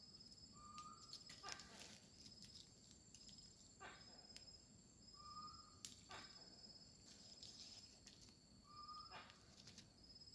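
Faint night forest ambience: insects trilling steadily in a high pitch, a short rising call repeating about every four seconds, and several brief rasping animal calls.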